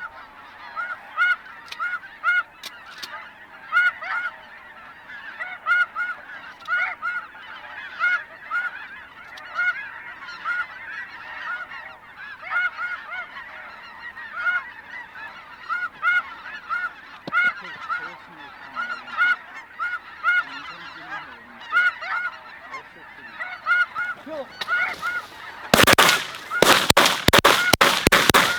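Snow geese calling, a dense chorus of short repeated calls. About three seconds before the end a rapid volley of shotgun blasts from several guns breaks out.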